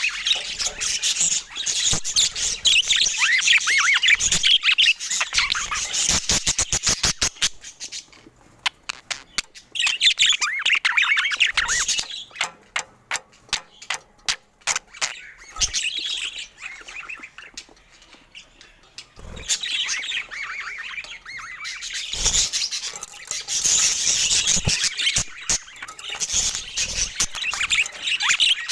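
Budgerigars chattering and warbling in long stretches of fast, high twittering. Between the stretches come runs of quick, sharp clicks.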